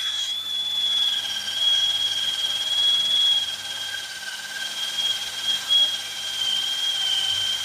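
Power drill spinning a stiff wire brush, a steady high whine with scraping, scouring caked-on corrosion out of the hub bore where the steel hub assembly sat against aluminum.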